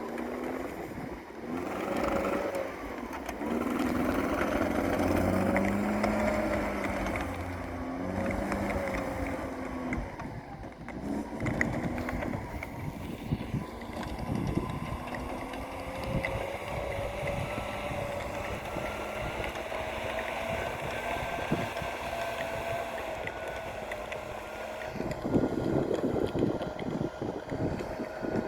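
All-terrain vehicle's engine running, its pitch rising and falling as the revs change, with a rougher, louder patch near the end.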